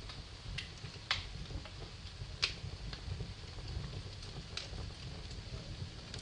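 Wood fire burning in a fireplace, crackling: sharp pops and snaps at irregular moments over a low, steady rumble of flame.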